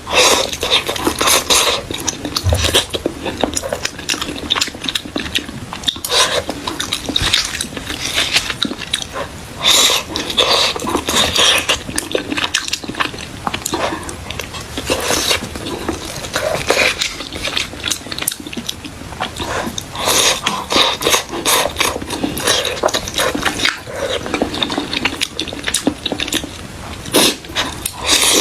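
Close-miked eating: irregular biting and chewing noises of a soft salted-egg-yolk lava pastry, busy and crackly throughout.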